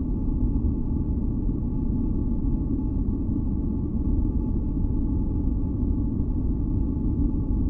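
Steady, deep, rumbling masking noise, heavy in the bass and dark like brown noise, with a few faint steady tones humming above it. It holds constant with no changes.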